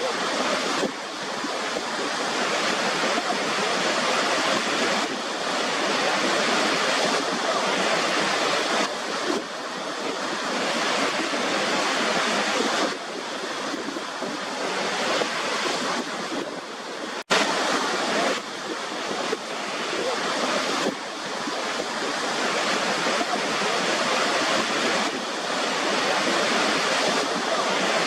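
Waterfall: water rushing and splashing steadily as a dense, even noise that swells a little now and then, broken by a split-second drop-out about seventeen seconds in.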